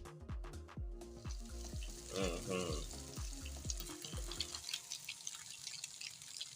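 Egg-soaked bread frying in oil in a pan: a steady sizzle with crackles that comes in about a second in. Background music with a steady beat plays under it and stops about two-thirds of the way through.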